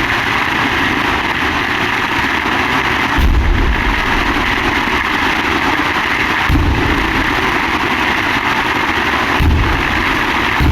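Firework shells bursting with deep booms, four of them about three seconds apart, over a steady hiss.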